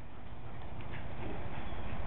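Dogs' paws pattering and scuffling as they run and play.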